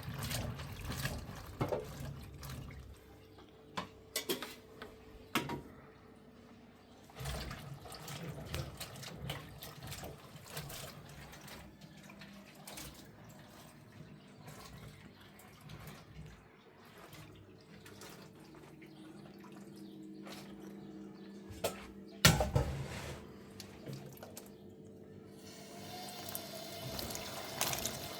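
Water running and splashing, with scattered clicks and knocks, the loudest a sharp knock about twenty-two seconds in. Near the end a steady tone sets in.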